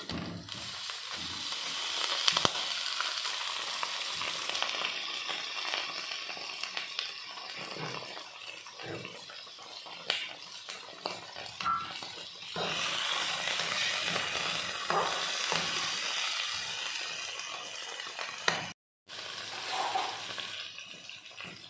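Chicken pieces sizzling in hot oil with browned onions in a metal kadhai, with a few sharp clinks of a metal spoon against the pan as they are stirred.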